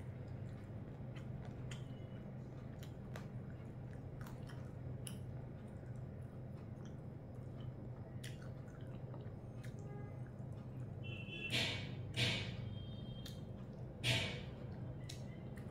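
Someone eating rice and curry by hand: wet chewing, small squishes and clicks of fingers working the food, then three louder, short wet mouth noises near the end as bites go in, over a low steady hum.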